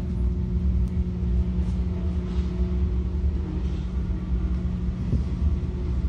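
Ro-ro car ferry's diesel engines rumbling steadily with a constant low hum as the ferry docks.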